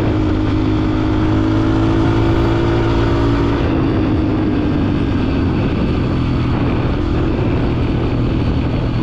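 Dirt bike engine running steadily at cruising speed, its note easing down slightly about three and a half seconds in.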